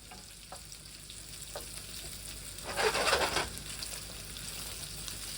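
Cubed leftover potatoes and onion frying in fat in a pan: a steady low sizzle with scattered small pops, with a louder hiss lasting under a second about three seconds in.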